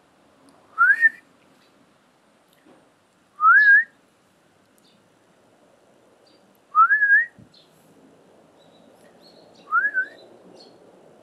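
A person whistling four short rising calls a few seconds apart to get a dog's attention, each call sliding up in pitch with a small wobble near the top.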